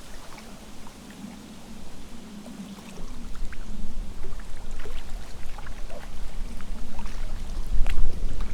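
Gusty wind buffeting the microphone in a deep rumble, with rustling and small crackles of leaves. The wind picks up about three seconds in and gusts hardest near the end.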